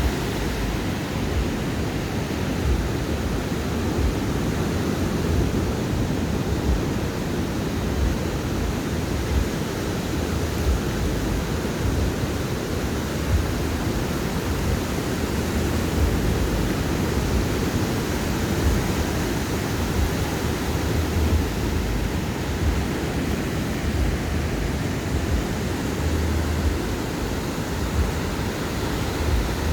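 Ocean surf breaking on a sandy beach: a steady rush of waves with a deep, uneven rumble underneath.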